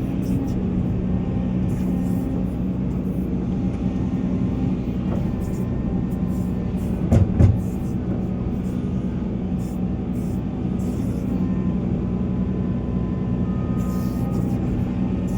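Volvo EC480 hydraulic excavator's diesel engine running steadily under working load. A pair of heavy knocks comes about halfway through.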